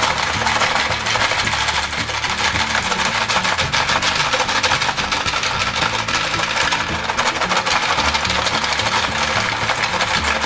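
Continuous rapid clatter of hard gumballs rattling in a plastic toy game during a timed race, with background music underneath.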